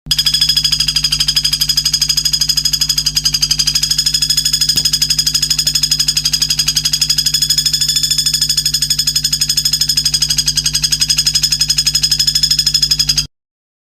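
A recorded high trill, many fast pulses a second held at one steady pitch, played as song-tutoring material for white-rumped shamas, with a steady low hum beneath. It starts abruptly and cuts off suddenly near the end.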